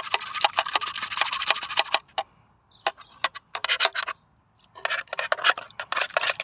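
A scraping tool being worked into an engine part packed with thick sludge, giving rapid clusters of scratchy scrapes and clicks, a near-quiet gap with a few separate clicks around the middle, then more scraping. The part is clogged full of old sludge.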